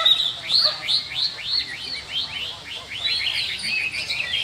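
White-rumped shama singing: a quick series of sweeping, whistled notes that rise and fall, running into a denser warble near the end.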